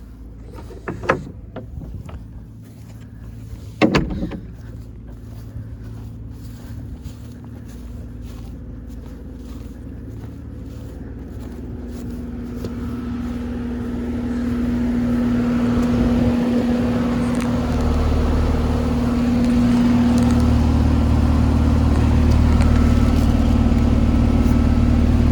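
2024 Carrier central air conditioner's outdoor condensing unit running: steady compressor hum and fan noise that grow much louder through the second half. A few sharp knocks come in the first few seconds.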